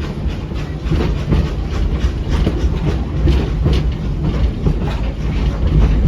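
Passenger train rolling along the track, heard from aboard a car: a steady low rumble with frequent irregular wheel clicks and clatter.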